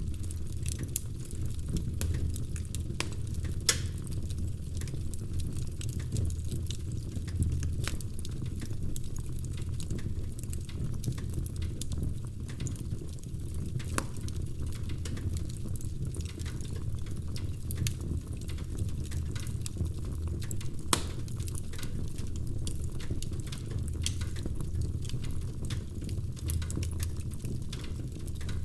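Wood fire burning in a fireplace, with a steady low rumble and irregular sharp crackles and pops. The loudest pops come about 4 seconds and 21 seconds in.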